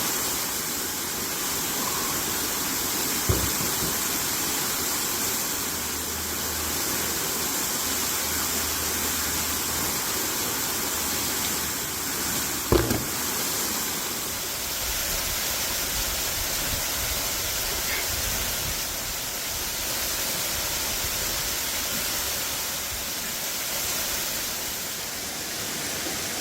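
Steady rushing noise with no speech, broken by two brief thumps, one about three seconds in and one near the middle.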